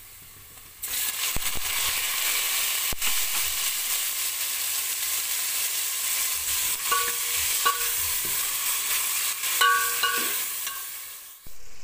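Chopped tomatoes sizzling in hot oil over browned onions in a metal pot; the sizzle starts suddenly about a second in as they go into the oil and stays steady while they are stirred with a metal spoon. A few brief scrapes of the spoon against the pot come near the end.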